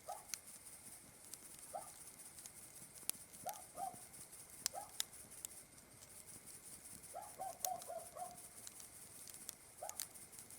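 Campfire crackling with sparse sharp pops over a steady high hiss. An animal calls in short mid-pitched notes throughout, now singly, now in quick runs of four or five.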